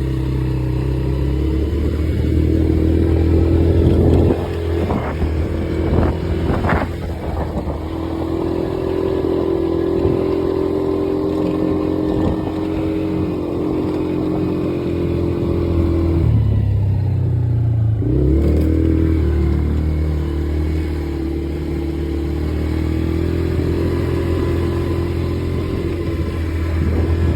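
Quad bike engine running as the quad is ridden, its pitch rising and falling, with a few sharp clatters around five to seven seconds in and a brief dip and recovery about two-thirds of the way through.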